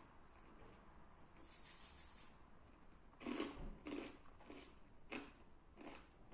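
Chewing of crispy-crusted naan pizza close to the microphone: a faint rustle, then about five crunching chews roughly half a second apart in the second half.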